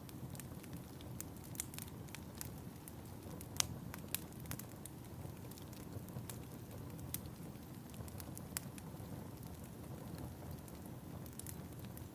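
Fireplace fire crackling: irregular sharp pops and snaps over a steady low rumble of the flames, with the loudest pop about three and a half seconds in.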